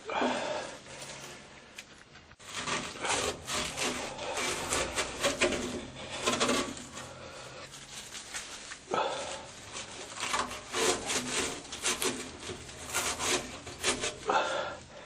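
Rust being scraped off the top of an old Whirlpool washing machine: a run of rough, irregular scraping strokes with short pauses.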